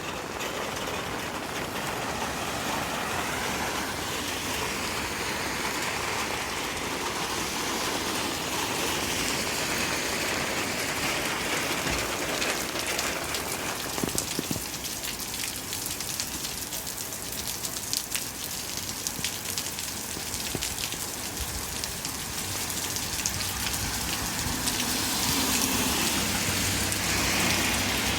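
Steady rain falling, with many small drop taps close to the microphone. A low steady hum comes in near the end.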